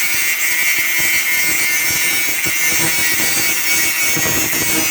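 Power tool cutting through a steel bedframe rail with a blade: a steady high whine over a harsh hiss.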